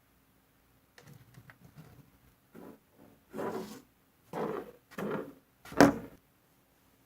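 Objects being handled and set down on a table while slime ingredients are prepared: a few light clicks, then five short rustling, scraping bursts. The last burst, about six seconds in, is the loudest and sharpest.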